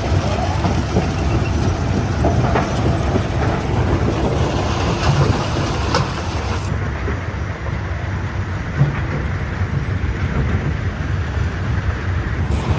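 Heavy machinery running with a steady low rumble, with a few short sharp knocks scattered through it.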